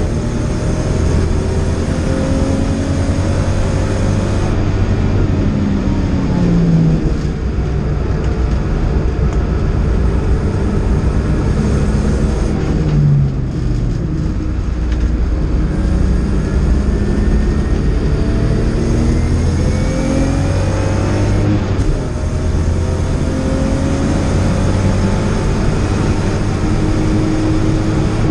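BMW E30 325i's 2.5-litre straight-six engine heard from inside the cabin at racing speed, its revs climbing through the gears and dropping back at each shift. About halfway through it lifts off and downshifts for a corner, then pulls hard again.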